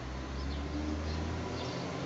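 Small birds chirping a few times, short high calls, over a steady low rumble.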